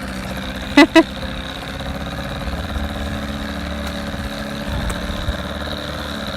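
A motor running steadily at idle. About a second in there are two short, loud pitched beeps in quick succession.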